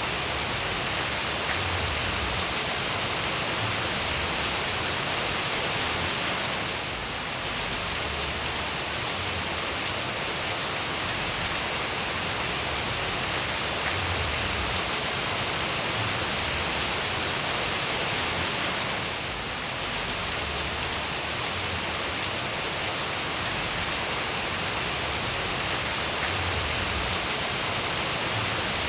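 Steady rain falling, a dense even hiss, that dips briefly twice about twelve seconds apart.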